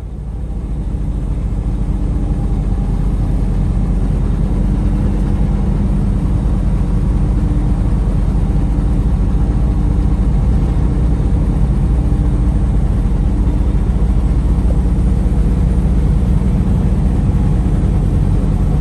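Semi truck's engine and road noise heard from inside the cab while driving on the highway, a steady low rumble that swells over the first couple of seconds and then holds level.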